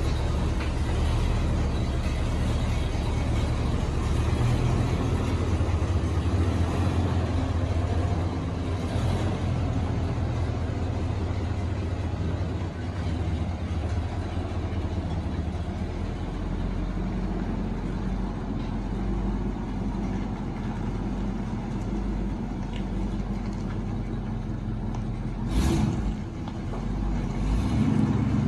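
1963 International Loadstar truck engine running steadily after a cold start, a little louder for the first twelve seconds or so and then settling lower. A single short knock sounds near the end.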